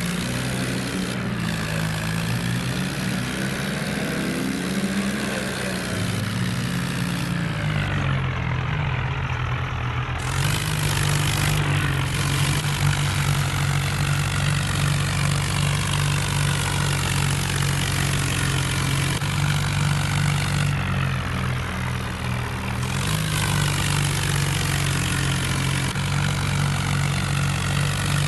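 Diesel tractor engine running. Its engine speed dips and changes around six to ten seconds in, then holds steady.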